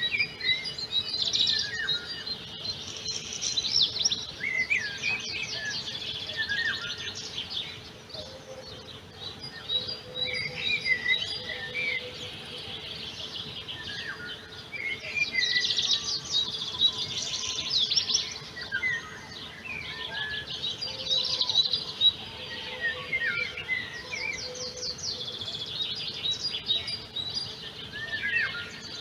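Songbirds singing: long phrases of fast trills and chirps, each a few seconds long, repeating every few seconds.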